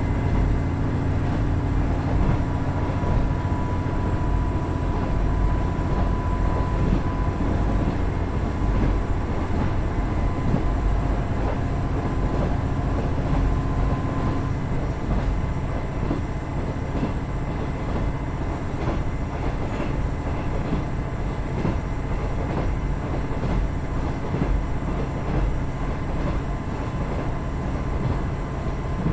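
KiHa 110 series diesel railcar under way, its Cummins DMF14HZA diesel engine droning steadily together with the rumble of wheels on rail.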